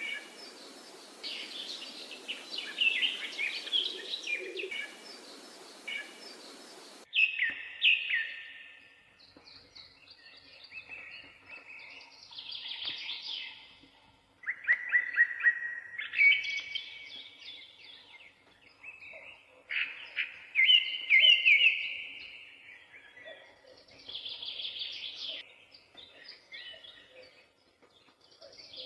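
Parakeets chirping and warbling in short, quick phrases. A hissy background noise under the first few seconds cuts off suddenly about seven seconds in, leaving the chirps clearer.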